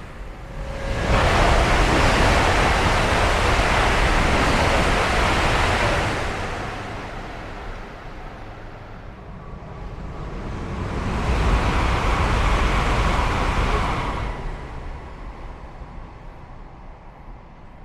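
High-speed EMU trains passing at speed: a loud rushing noise of wheels and air that comes in sharply about a second in and eases after about six seconds, then swells again around eleven seconds and fades away.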